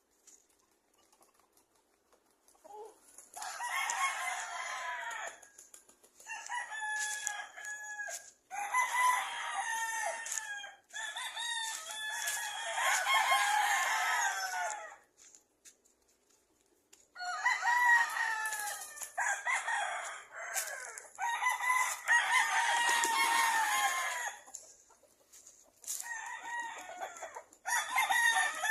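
Rooster crowing again and again, each crow lasting a second or more, with short pauses between them.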